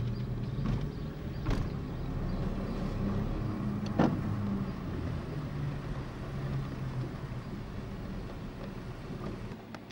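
Car engine running as the car drives across a car ferry's deck, heard from inside the cabin as a steady low hum. A sharp knock about four seconds in and a lighter one about a second and a half in.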